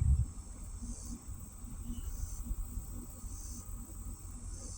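Insects chirring steadily in high, pulsing swells, with a low thump right at the start and low rumbling underneath.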